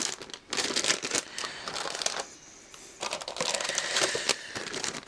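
Plastic bags of model-kit parts runners crinkling as they are handled and moved, in two spells of crackling with a short lull between.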